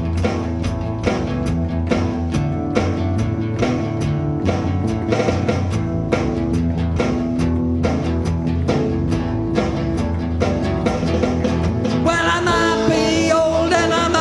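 A rock and roll band playing the opening of a song: a steady, driving drum beat under bass and guitar chords. About twelve seconds in, a wavering higher lead line comes in over the top.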